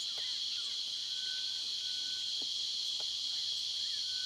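Dense, steady, high-pitched chorus of insects, with a few faint short whistles scattered through it.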